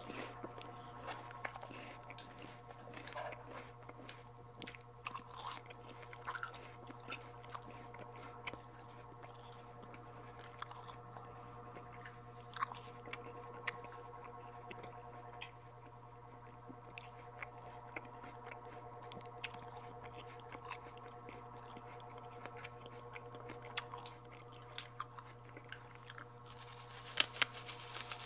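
Close-up chewing and biting of santol fruit, with many small wet mouth clicks over a steady low hum. A cluster of louder clicks comes near the end.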